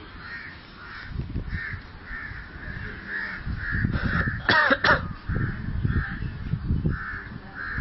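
Birds calling over and over, a harsh call about twice a second, with low rumbling noise underneath; a louder, sharper cry stands out about four and a half seconds in.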